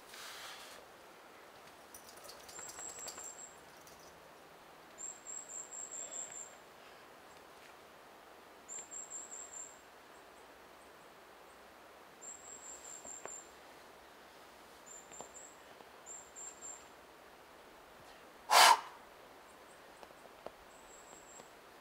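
A small bird repeats a short, very high trill every few seconds over a quiet forest background. Near the end there is a single short, loud, sharp burst of noise.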